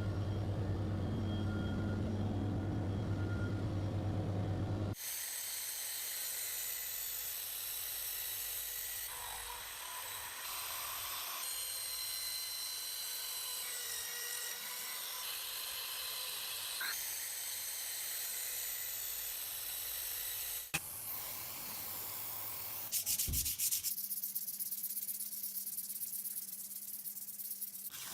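A low drone for the first few seconds, then a long run of abrasive rubbing on rusted metal, as rust is scrubbed or sanded off. Near the end the strokes turn quick and repetitive.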